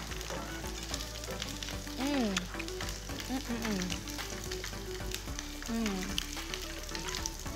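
Pieces of conch sautéing in a frying pan, sizzling steadily while a spatula stirs and scrapes them, with small clicks of the spatula against the pan. A few short sliding vocal exclamations sound over the sizzle.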